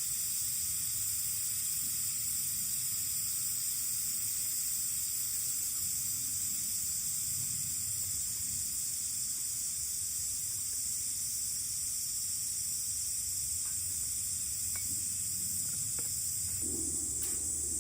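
Steady high-pitched chorus of summer insects, with a few faint sharp ticks in the second half.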